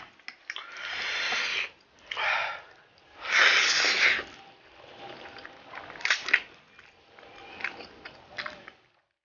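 Spicy instant ramen noodles slurped in three long hissing bursts, the loudest about three seconds in, followed by quieter chewing and mouth clicks.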